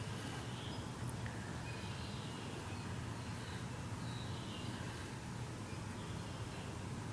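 Steady low hum, with a few faint, brief high-pitched chirps scattered over it.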